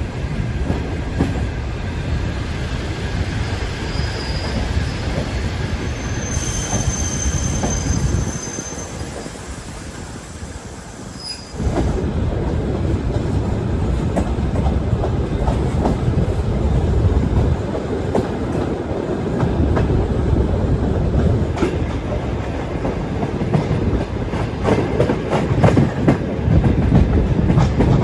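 Sleeper train carriage running on the rails: a steady low rumble with scattered wheel clicks and a thin, high squeal about six seconds in. The sound drops away for a few seconds, then comes back louder and abruptly about twelve seconds in.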